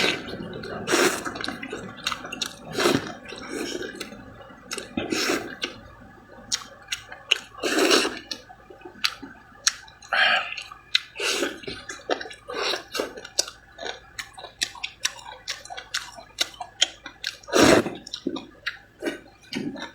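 A person slurping and chewing starch noodles: many short wet smacks and mouth clicks, with a few longer, louder slurps spread through.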